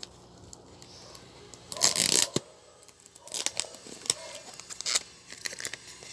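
Parcel packaging being opened by hand: a loud ripping noise about two seconds in, then rustling and light clicks.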